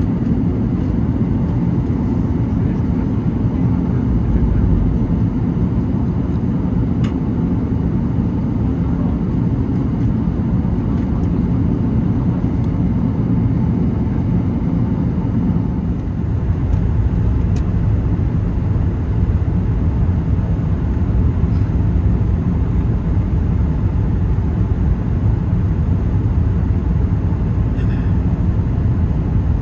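Steady low rumble of an Airbus A380's engines and airflow heard inside the passenger cabin. About halfway through it dips briefly, then the deepest part of the rumble comes back stronger, with a few faint clicks.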